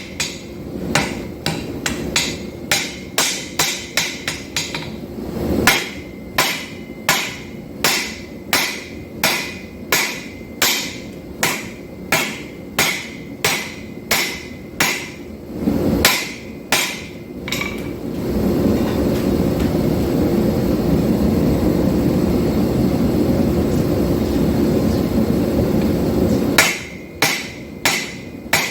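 Hammer blows on hot steel on an anvil while forging a knife, about two strikes a second, each with a ringing tone. The strikes stop for about eight seconds in the latter half, leaving a steady rushing noise, and start again near the end.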